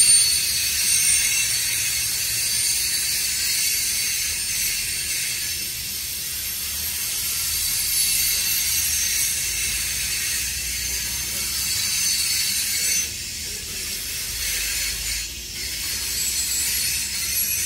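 Covered hopper cars of a grain train rolling past close by: a steady clatter and rattle of steel wheels on the rails.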